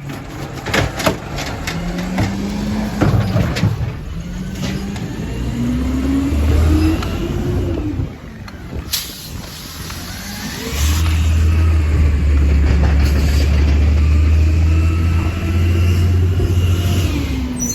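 Compost collection truck's engine revving up and down several times. A steady, loud low drone runs from about eleven seconds in until near the end, with a single sharp click just before it.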